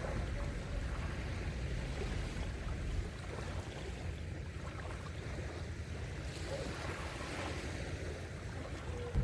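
Gentle sea waves washing onto a sandy beach, a steady surf wash with low wind rumble on the microphone.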